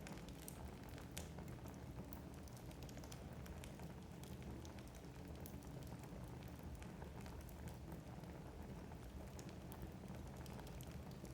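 Wood fire burning in a fireplace: a low steady rumble of flames with scattered sharp crackles and pops of the logs.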